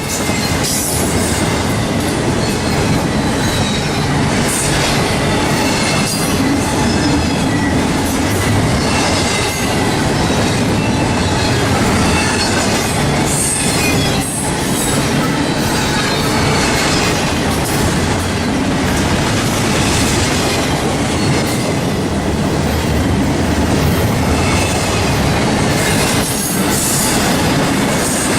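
A Norfolk Southern train's cars rolling steadily past, with wheels clicking over the rail joints and faint high wheel squeal coming and going.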